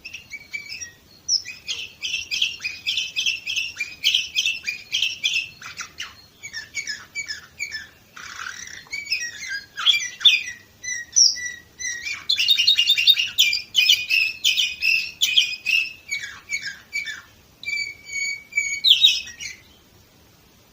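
Domestic canary singing a long song of rapid trills, one quick run of repeated notes after another, high-pitched, with the song stopping shortly before the end.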